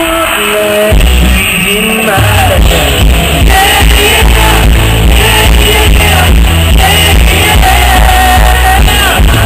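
Live pop-rock band playing in an arena: loud drums and bass under a singing voice, with shouting from the crowd.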